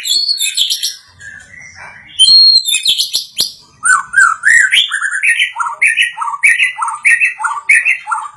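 A songbird singing loud whistled phrases: varied warbling at first, then from about halfway a fast repeated phrase that alternates a lower and a higher note, about three notes a second.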